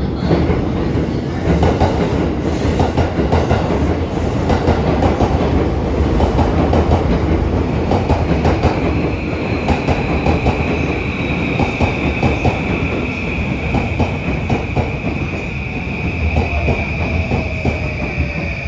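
Electric train running along the platform, its wheels clacking over rail joints over a heavy rumble. From about eight seconds in, a steady high squeal joins, with fainter whines that slowly fall in pitch.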